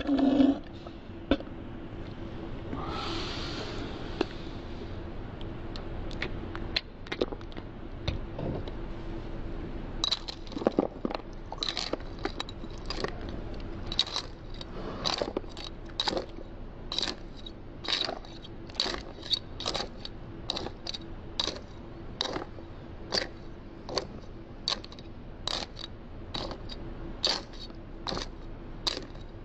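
Dry cereal crunching as it is chewed, in short sharp crunches about once or twice a second from about a third of the way in.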